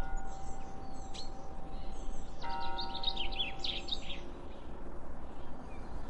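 Small birds chirping in a quick run of high calls about halfway through, over a steady low outdoor rumble. A bell rings with a long sustained tone and is struck again about two and a half seconds in.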